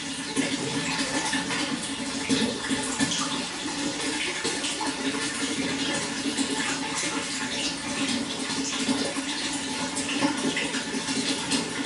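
Running water flowing steadily, a continuous rushing splash with many small irregular spatters.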